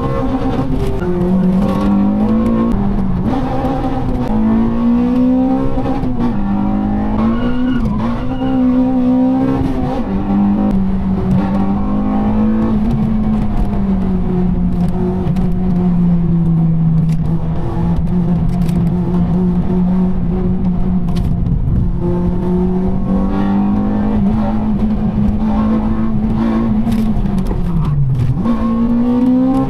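Honda Civic Type R EP3's four-cylinder VTEC engine heard from inside the cabin, running hard under load with road and tyre noise underneath; its pitch rises and falls gently, and near the end it drops sharply and climbs again through a gear change.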